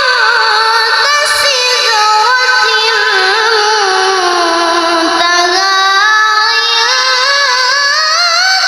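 A child's voice in melodic Quran recitation (tilawah), holding one long, unbroken ornamented note with small wavering turns. The pitch sinks slowly to its lowest about halfway through, then climbs higher toward the end.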